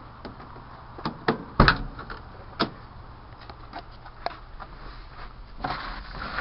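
A run of sharp knocks and clicks, the loudest thump about one and a half seconds in, over a low steady hum.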